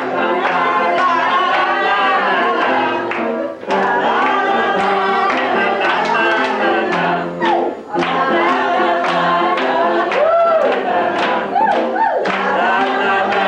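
A group of people singing together in unison to instrumental accompaniment that holds chords under the voices, with a steady beat.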